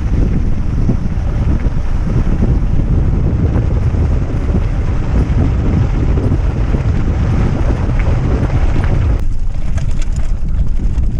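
Heavy wind buffeting the camera microphone on a mountain bike ride, a steady loud rumble. About nine seconds in it eases in the middle range and a few sharp clicks come through.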